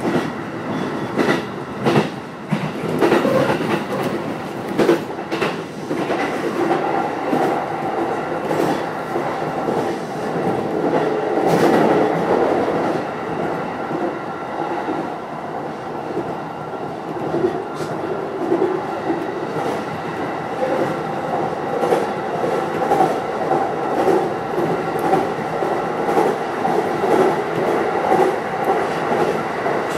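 Keiyō Line rapid electric train running at speed, heard from the driver's cab: a steady rumble and hum, with wheels clicking over rail joints, the clicks coming thick and fast in the first few seconds and only now and then after that.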